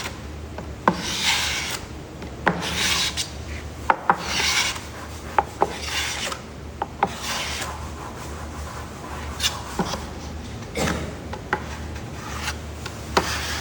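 A spreader scraping contact cement across a wooden panel in repeated rasping strokes, roughly one a second, with sharp ticks of the tool against the wood between strokes.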